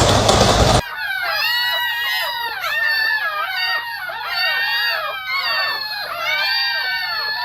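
Several dogs whining and yelping in high, overlapping cries that rise and fall, after a loud noise that cuts off abruptly about a second in.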